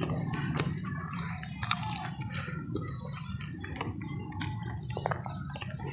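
A person eating a ketchup-covered samosa: wet chewing and mouth smacks with many small irregular clicks, over a low steady hum.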